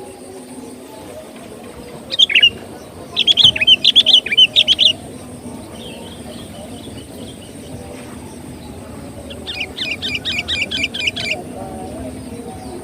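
Sooty-headed bulbul (kutilang) calling in bright, bubbly phrases. There is a short call about two seconds in, then a chattering run of quick notes, and near the end a fast, evenly spaced series of repeated notes. A faint steady high hiss lies underneath.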